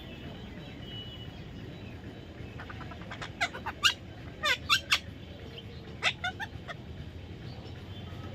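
A parrot giving a string of short, shrill calls in two bursts, the first and loudest about three seconds in and a shorter one about six seconds in, over a steady low background hiss.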